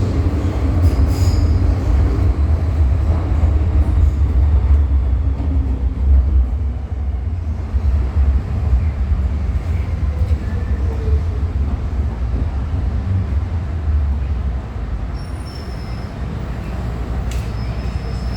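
MTR M-Train electric multiple unit running through a tunnel and slowing into a station. A heavy low rumble eases off about fifteen seconds in, with a faint high squeal near the end.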